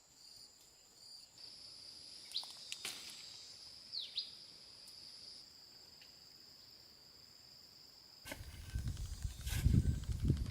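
Forest insects buzzing in steady high-pitched tones, with two short falling bird chirps. About eight seconds in, a louder low rumbling noise with sharp knocks takes over.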